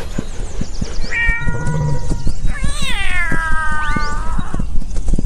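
Cat meowing: a short meow about a second in, then a long drawn-out meow that falls in pitch and then holds steady for about two seconds. Under it runs a dense patter of low thumps.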